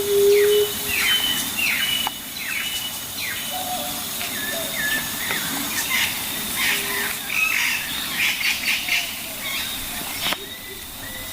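Birds calling outdoors: a run of short, downward-sweeping chirps repeating through most of the stretch, over a steady high tone. A sharp click comes about ten seconds in.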